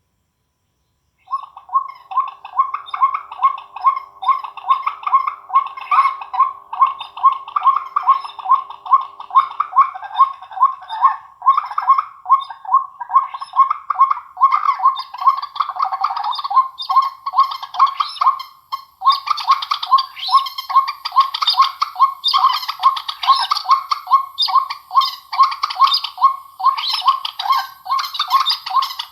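Recorded bird calls played loud through a small amplifier and speaker: a dense run of rapid, repeated chirps that starts about a second in and gets brighter and fuller partway through.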